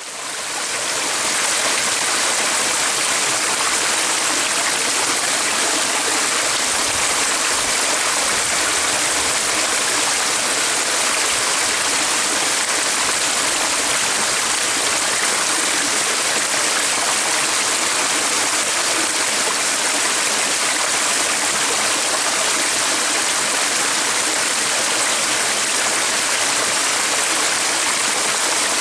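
Steady rushing of a flowing stream, fading in over the first second or so and then holding level.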